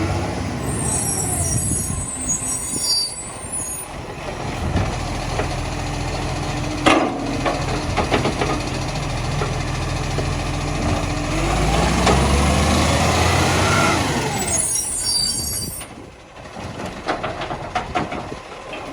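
Recycling garbage truck working: the diesel engine's pitch falls, holds, then climbs again as it revs, with short air-brake hisses near the start and about three-quarters through. A sharp knock about seven seconds in and a few lighter knocks near the end.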